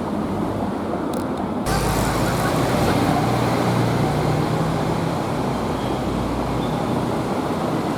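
Street traffic noise, with a vehicle engine running close by from about two seconds in.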